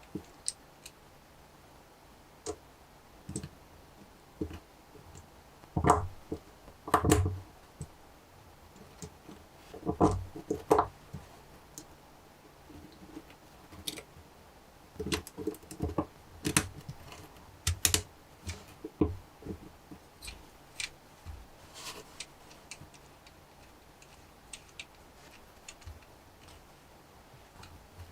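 Lego Technic plastic pieces clicking and knocking as they are handled and snapped together, in irregular bursts, with louder clunks a few times.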